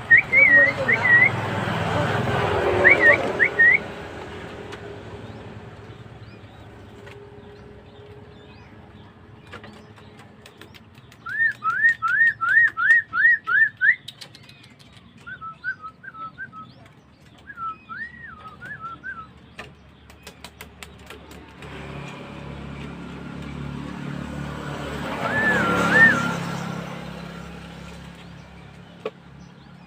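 Birds calling: a few short chirps at the start, then a quick run of about eight rising whistled notes midway, followed by scattered short chirps. A broad rustling noise swells up at the start and again near the end.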